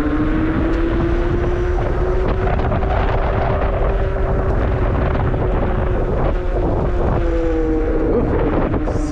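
Electric bike motor whining under throttle, its pitch climbing over the first couple of seconds and then holding steady, with wind buffeting the microphone throughout.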